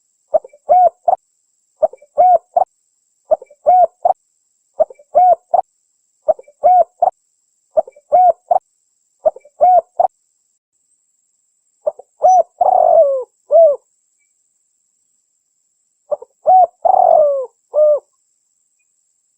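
Spotted dove (tekukur) cooing: a short coo phrase repeats evenly about every second and a half, seven times. After a pause, two longer, rougher coo phrases follow.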